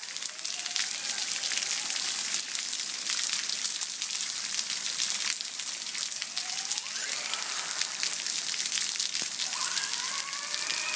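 Heavy rain hissing steadily. Over it, a Traxxas Slash VXL RC truck's brushless motor whines up in pitch as the truck accelerates, about six seconds in and again near the end.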